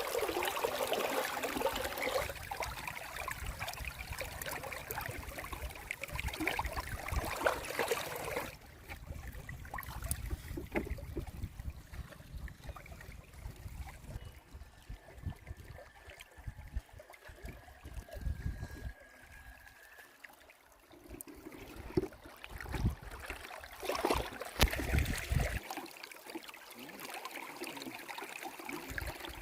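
Flowing river water running steadily, louder in some stretches than others, with scattered short knocks.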